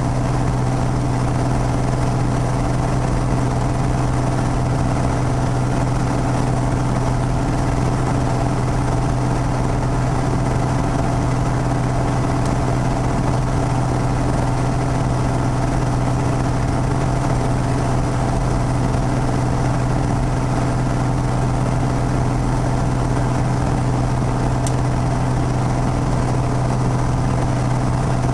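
Piper PA-32's six-cylinder Lycoming piston engine and propeller running with a steady, unchanging drone.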